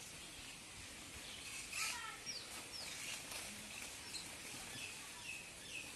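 Small birds chirping outdoors, a string of short falling chirps every half second to second, over a steady outdoor background. Just before two seconds in there is a louder brief rustle.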